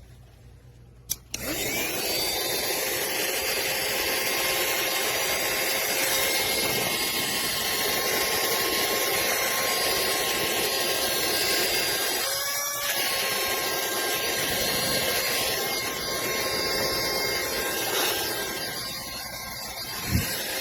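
Vizeusvac cordless handheld car vacuum switched on with a click, its motor spinning up and then running steadily with a whine over a loud rush of air. About two-thirds through the note briefly dips and wavers as the suction is loaded, and a sharp knock comes near the end.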